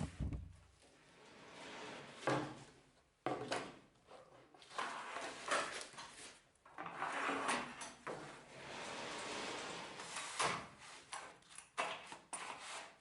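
Plywood parts being handled and slid on a work surface: a series of irregular knocks and longer scraping slides.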